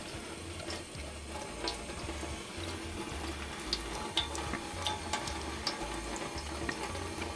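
Tap water running at low pressure over a circuit board, with fingers rubbing the softened transfer paper off the board. Small scattered clicks sound through the steady running water.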